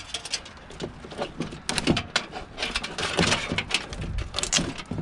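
Scrap being worked by hand: an irregular run of knocks, clicks and scrapes, busiest and loudest in the second half.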